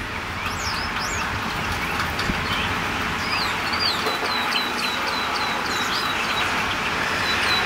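A bird calling repeatedly: high short chirps early on, then from about three seconds in a steady series of short down-slurred notes, two to three a second, over a steady hiss.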